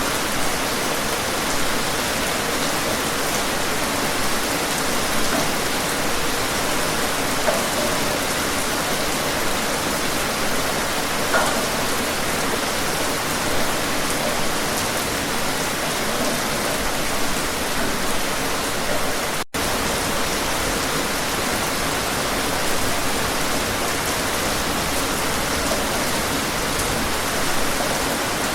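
Steady rain, a dense even hiss with scattered faint drop taps. About two-thirds of the way through, the sound cuts out completely for a split second, then resumes unchanged.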